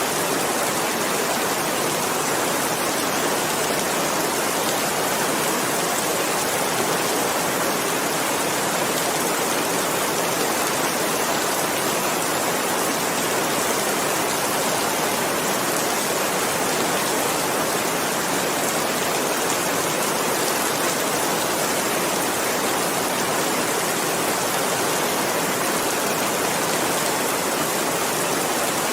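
Steady, heavy rainfall, a dense even hiss of countless drops with no distinct individual drips or changes.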